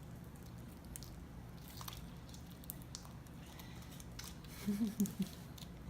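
Faint squishing and small clicks of hands working sticky glue slime, over a low steady hum.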